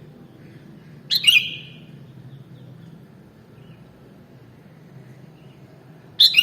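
Sooty-headed bulbul (kutilang) calling: two short, loud calls, one about a second in and one near the end, each ending in a brief falling trail.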